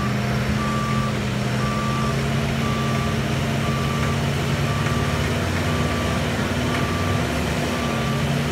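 A truck's backup alarm beeping steadily, about once a second, over the steady hum of a running truck engine.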